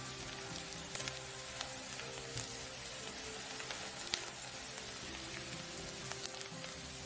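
Diced onion and garlic sizzling steadily in hot oil in a nonstick pan as they are stirred with a spatula, with scattered sharp pops and taps.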